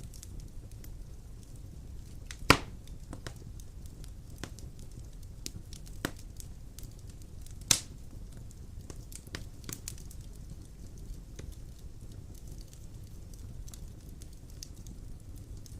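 Wood fire burning in a stone fireplace: a steady low rumble of flame with frequent small crackles and a few loud sharp pops, the loudest about two and a half seconds in and again near eight seconds.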